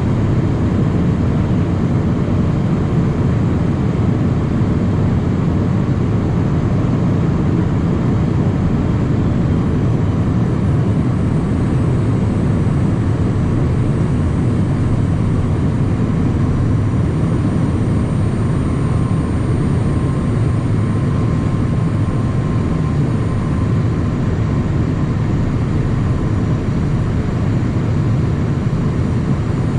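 Steady cockpit noise of a Cessna Citation Mustang light jet in flight: a continuous low rush of airflow and its twin Pratt & Whitney PW615F turbofan engines, with a faint thin high whine coming in partway through.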